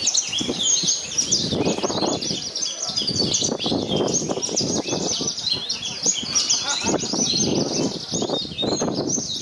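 Many Javan bush larks (branjangan) singing at once, a dense, unbroken tangle of high chirps and trills, with people's voices murmuring underneath.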